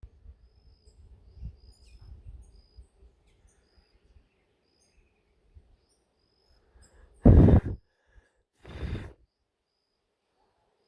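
Faint short bird chirps over a low outdoor rumble, then two loud breathy rushes of noise about a second and a half apart.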